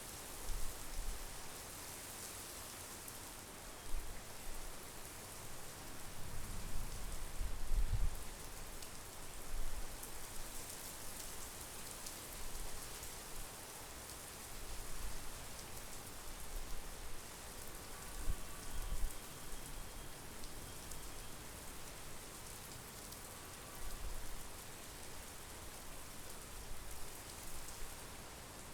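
Steady monsoon rain falling, a continuous hiss of drops, with uneven low rumbles now and then, the strongest about seven to eight seconds in.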